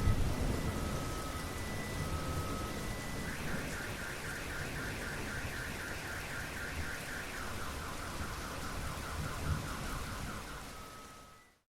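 A car alarm cycling through its tones over steady rain: slow alternating two-pitch beeps, then about three seconds in a fast warble of about four pulses a second, then a lower warble, then a single beep. A rumble of thunder fades out near the start, and the sound drops away just before the end.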